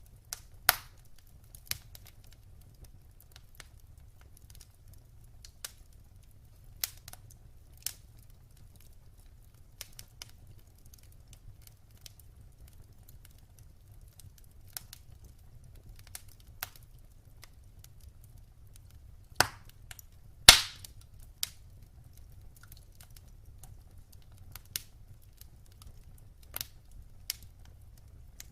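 Wood fire in a fireplace crackling: scattered sharp pops and snaps over a faint low rumble, with two louder pops about two-thirds of the way through.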